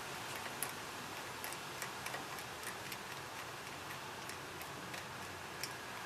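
Light, irregular clicks and ticks of hand tools and small metal parts being handled, a few a second, over a steady hiss.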